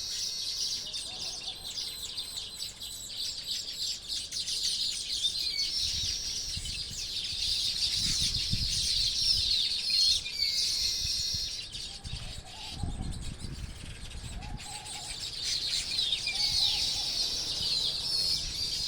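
A flock of weaver birds chirping and chattering without pause in fast, high, overlapping notes. A few short lower calls come in during the second half, over some low rumbling.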